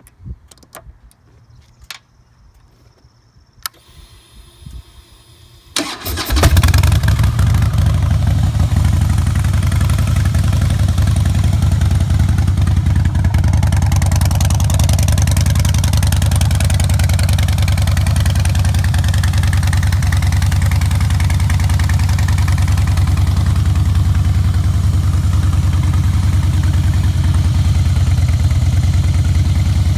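A few clicks, then about six seconds in the 2007 Harley-Davidson Softail Custom's Twin Cam 96B V-twin cranks, catches and settles into a steady idle through Vance & Hines Big Radius exhaust.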